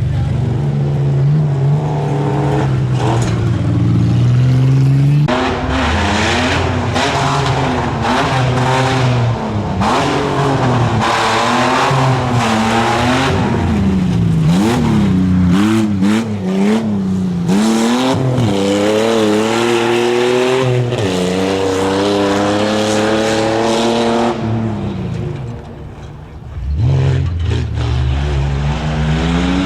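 Off-road competition truck's engine revving hard, its pitch climbing and falling again and again as the throttle is worked through the course. Near the end it drops off briefly, then picks up again.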